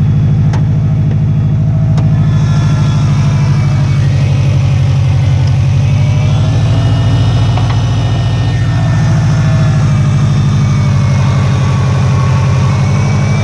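Turbocharged car engine idling steadily on warm-up, with a tick from both sides of the engine: the engine has a cracked piston, according to the shop's diagnosis.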